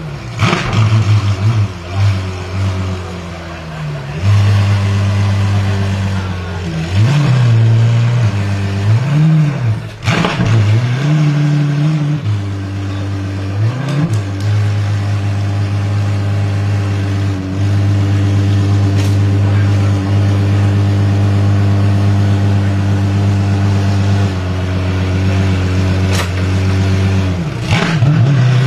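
Apollo Intensa Emozione's naturally aspirated V12 revved while standing: a string of quick throttle blips, each rising and falling in pitch, over the first half, then a steady idle, with another blip near the end.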